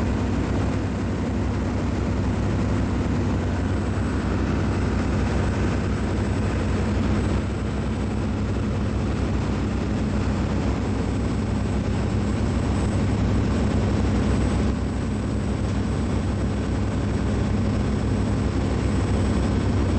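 Steady, even low rumble of heavy machinery with a faint constant high whine over it; nothing starts or stops.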